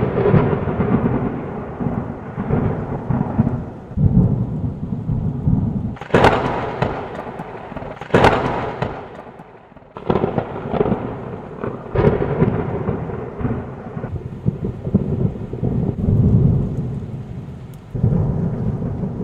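Thunder sound effect: a run of thunderclaps, each starting suddenly and rolling off into a rumble, about every two seconds. Two of them, around six and eight seconds in, are sharp cracks.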